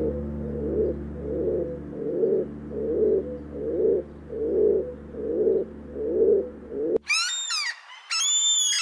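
Victoria crowned pigeon giving a series of deep, low coos, about nine of them at an even pace. About seven seconds in, it cuts to a gull's high calls that rise and fall in pitch.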